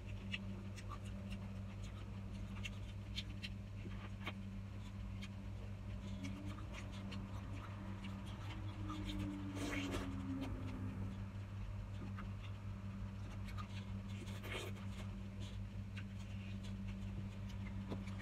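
Close-miked eating of fresh strawberries: soft wet chewing and small mouth clicks, with a brief closed-mouth 'mmm' about halfway. Under it runs a steady low electrical hum.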